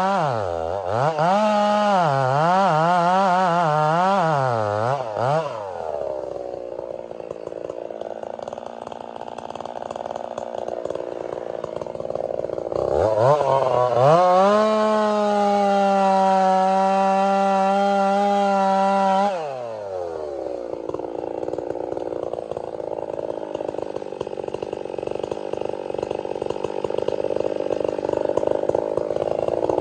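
Chainsaw with a 32-inch bar revving up and down in quick bursts, then dropping to a lower, rougher running. About halfway through it is held at high revs for about six seconds, then falls back suddenly, and it revs up again at the very end.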